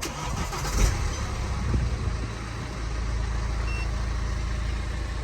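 BMW 318d's four-cylinder diesel engine starting about a second in, then settling into a steady idle.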